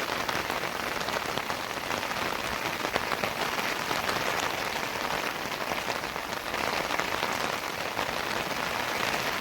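Steady rain falling, a dense even hiss of many drops hitting surfaces.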